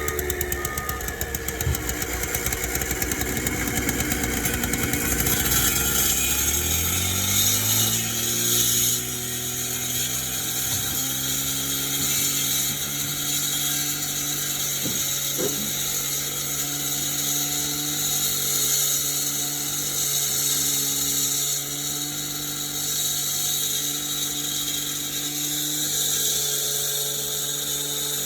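Heavy construction machine's engine rising in pitch about six to eight seconds in, then running at a steady high speed.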